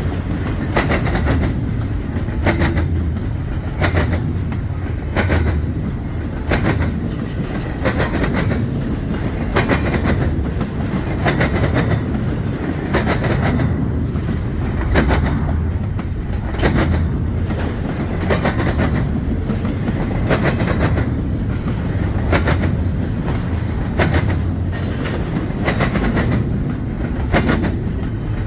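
CSX freight train's wheels hammering over a railroad diamond crossing: a steady run of sharp, loud clacks, roughly one or two a second, over the low rumble of the passing cars.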